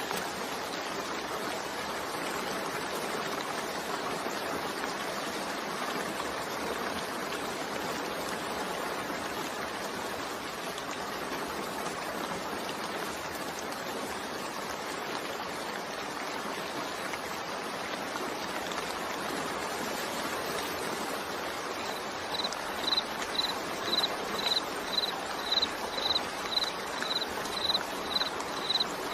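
Steady rain mixed with white noise. In the last few seconds a high-pitched chirp repeats about twice a second over the rain.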